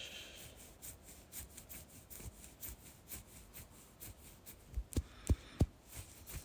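Close, rhythmic rubbing strokes by hand, about four a second, like gentle scratching, with three soft low thumps about five seconds in.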